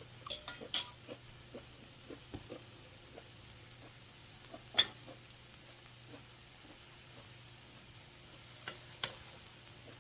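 Close-up mukbang eating sounds: scattered wet clicks and crunches of chewing and utensils over a faint steady hiss, with one sharp click about five seconds in.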